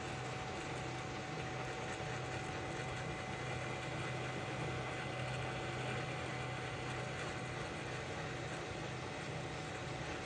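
Hot air rework station blowing steadily, a constant rush of air with a low fan hum and a faint steady tone, as it heats a phone motherboard for a solder reflow.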